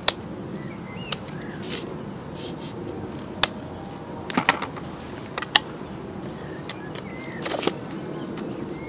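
Scattered sharp clicks and knocks, about half a dozen spread irregularly, over a steady low rumble, with a few short bird chirps.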